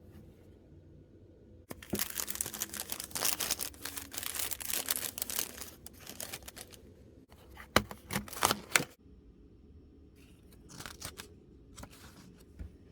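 Miniature-set packaging being torn open and crinkled by hand. A long spell of tearing and crinkling is followed by a few sharp crackles, then lighter rustling near the end.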